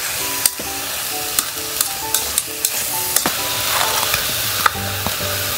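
Meat sizzling as it is stir-fried in an aluminium pot, with the tongs clicking against the pot several times. Background music of short stepped notes plays over it.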